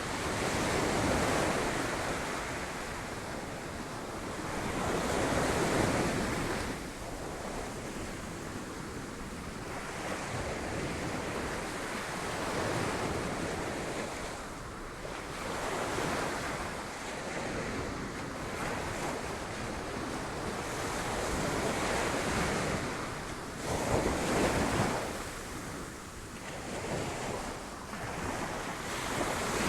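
Sea waves breaking on rocks, rising and falling in repeated surges every few seconds with the loudest swell near the end, and wind buffeting the microphone.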